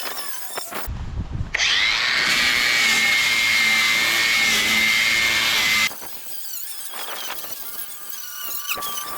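A small electric power tool's motor spins up with a rising whine and runs steadily with a hiss for about four seconds, then cuts off.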